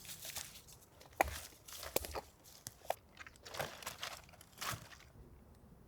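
Irregular crunching and rustling of twigs and forest litter, in scattered crisp crackles, stopping about five seconds in.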